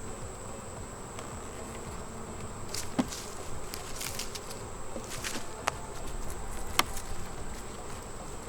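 Honeybees buzzing steadily around an open hive. A few sharp clicks rise above the buzz, three of them in the second half.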